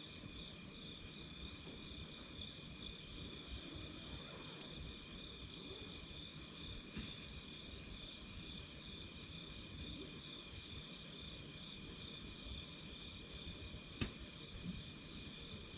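Wood campfire crackling softly over a steady trilling of night insects at several pitches, with one sharp pop near the end.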